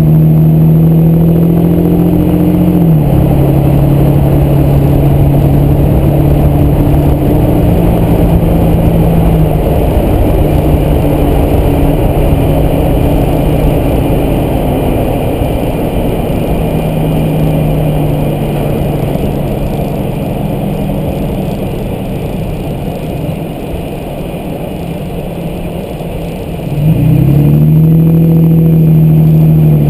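2010 Toyota Tacoma driving: engine and road noise, the engine note shifting pitch a few times as it cruises and easing off for a while, then getting louder with the engine pitch rising as the truck accelerates near the end.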